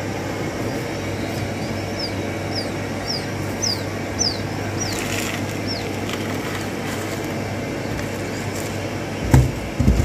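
A small bird chirping: a run of about eight short, high, falling peeps, roughly two a second, that stops about two-thirds of the way through. Under it runs a steady low hum, and a few knocks come near the end.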